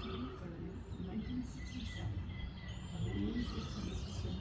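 Outdoor ambience of songbirds chirping and singing in short phrases over a steady low rumble.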